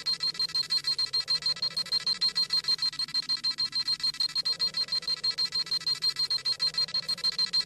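Dragon Ball Z scouter sound effect: a rapid run of high-pitched electronic beeps, several a second and evenly spaced, over a faint low hum. This is the scouter scanning a power level.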